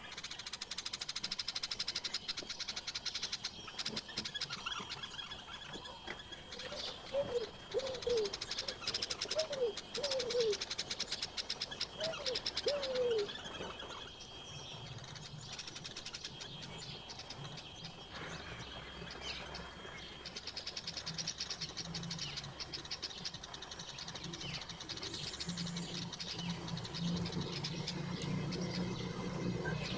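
Wild birds chirping and singing, with a series of short, low, falling calls in the middle. A low steady hum comes in about halfway through and grows toward the end.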